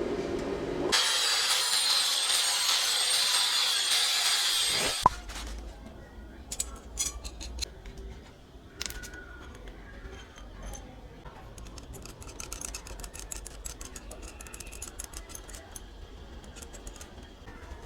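A power tool runs loudly with a high whine for about five seconds, then cuts off suddenly. It is followed by scattered light clicks and taps of tools and metal parts being handled.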